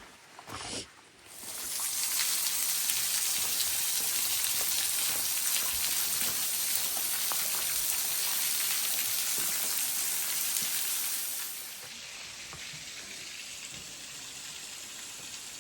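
A waterfall splashing down over a rock ledge: a steady, even rush of water. It swells in about a second in, stays loud, and drops to a softer level about three-quarters of the way through.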